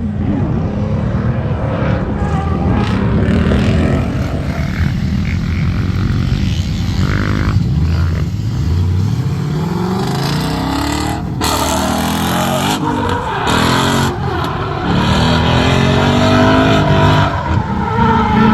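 Ford Mustang S550 drifting: its engine revs rise and fall again and again, with tyre noise that grows louder in the second half.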